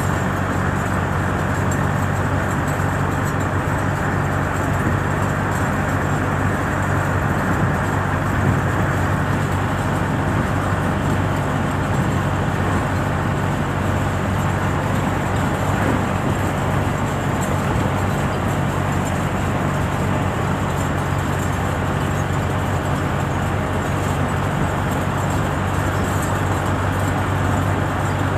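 A motor vehicle running steadily: a constant low engine hum with road noise, holding an even level throughout.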